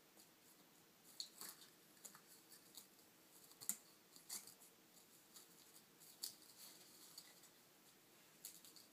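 Faint, scattered small clicks and scratches, one every half second or so at most, with the sharpest one about a third of the way in, over near silence.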